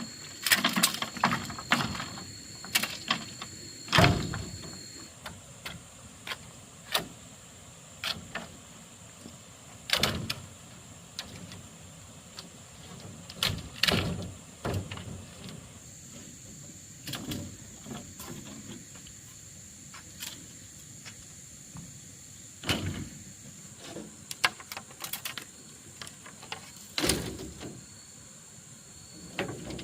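Irregular knocks and clatters of hand work, some dozen sharp hits spread unevenly, over a steady faint high-pitched whine.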